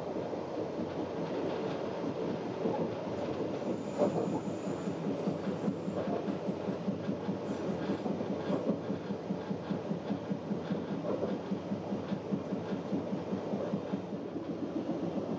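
Regional passenger train of the metre-gauge MBC line running along the track, heard from inside the carriage: a steady rumble of wheels on rails with a quick, even beat and one louder knock about four seconds in.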